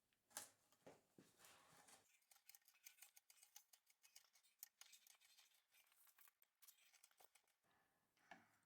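Faint hand-tool work on wood: a few light clicks, then several seconds of dense, fine, high scratching, then a few more clicks.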